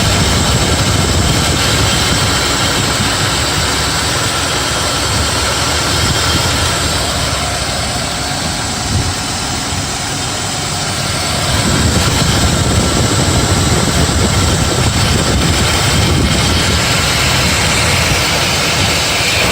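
BMW E34's M50 inline-six engine idling steadily, with no chirp from the belt drive: the cricket-like squeak from the belt tensioner is gone now that the tensioner mechanism has been cleaned and lubricated with WD-40.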